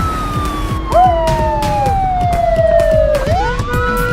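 A wailing siren: one long tone falling slowly for about three seconds, then sweeping quickly back up. A short second tone swoops up and down about a second in.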